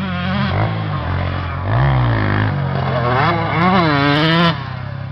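Motocross motorcycle engines revving, several at once, their pitch rising and falling as the riders work the throttle. The sound swells to its loudest just before the four-and-a-half-second mark, then drops off suddenly.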